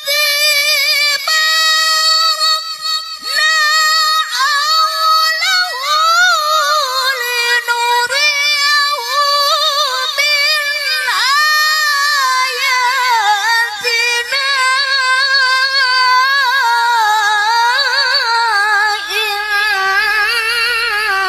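A female Quran reciter (qoriah) chanting in the melodic tilawah style in a high, clear voice. She holds long ornamented phrases with wavering, gliding pitch, broken by a few short breaths.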